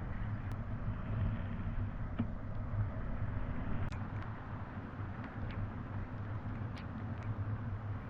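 Wind and road noise on a bike-mounted camera while riding a road bicycle downhill: a steady low rumble with a rushing hiss, with a few sharp ticks scattered through it.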